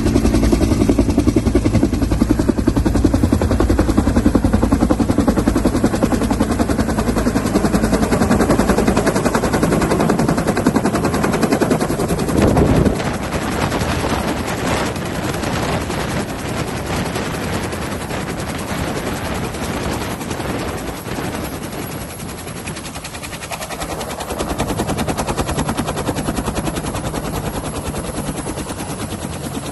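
Helicopter rotor blades beating in a rapid, loud chop at close range. The level drops a little about thirteen seconds in and rises again near twenty-four seconds.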